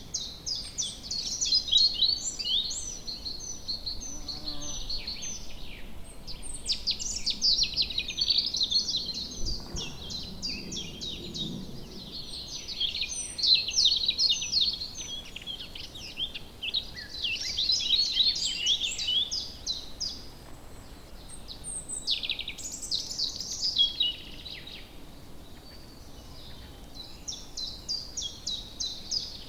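Woodland bird chorus: several birds chirping and singing at once, a dense run of quick high notes that swells and eases every few seconds.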